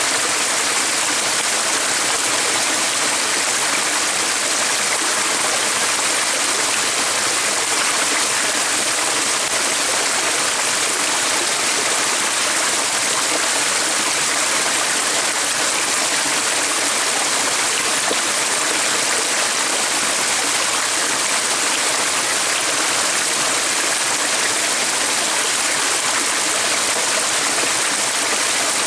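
Water running in a stream: a steady, unbroken hiss of flowing water, strongest in the high range.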